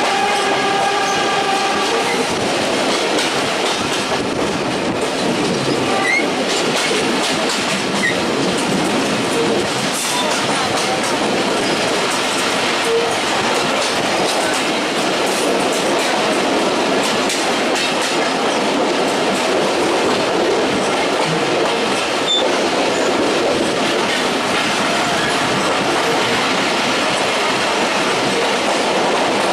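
Betna Express passenger train running at speed: a steady loud rumble of wheels on the rails with irregular clicks over the rail joints. A steady horn note cuts off about two seconds in.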